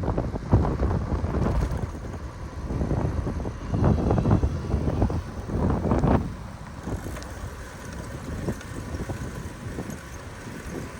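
Wind buffeting the microphone on a moving bicycle: a low, gusty rumble that swells and falls irregularly.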